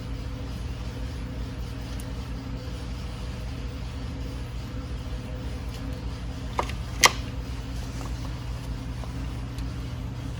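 A steady low hum, and about two-thirds of the way through two quick sharp metal clicks, the second louder: a wrench and Allen key knocking against a bolt as the shifter switch is fastened.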